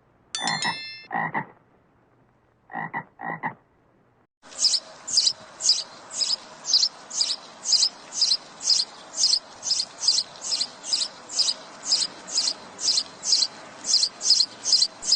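Animal calls: a few short separate calls, then a long, regular series of high-pitched calls at about two to three a second.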